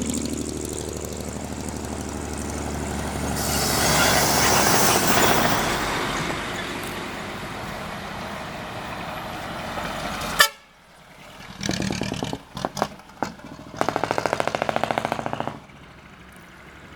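Dekotora trucks driving past with loud exhaust for about ten seconds; after an abrupt break, a few short horn toots and then a longer horn blast of about a second and a half.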